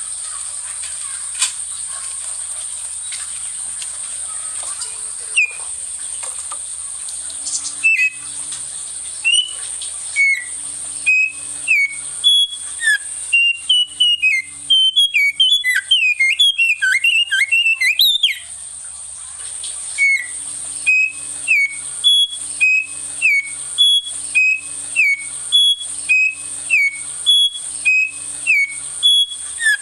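A small songbird singing loud, quick chirps. Each note slides down in pitch, repeated about twice a second. Near the middle the notes crowd into a fast jumble, pause briefly, then resume in an even series. A steady high-pitched whine runs under the song.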